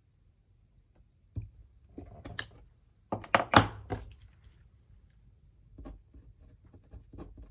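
Craft supplies handled on a desk: a single knock, a short rustle, then a quick cluster of loud knocks and clicks about three seconds in, followed by scattered faint ticks.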